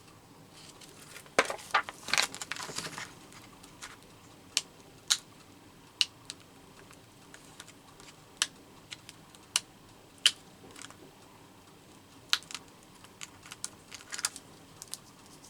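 Small metal paper brads and the collage page being handled on a tabletop: scattered sharp clicks and light taps, with a busier patch of rustling and clicking a couple of seconds in.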